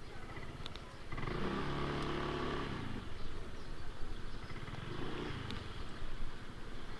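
Yamaha NMAX scooter being ridden, heard through a microphone inside the rider's helmet: steady low wind rumble on the microphone under the engine. An engine note swells about a second in and fades out near three seconds, with a weaker swell around five seconds.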